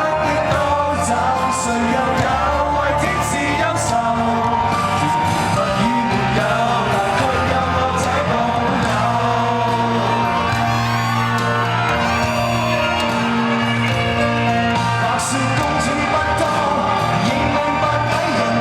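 Live band music from a Cantopop concert, with singing over the band.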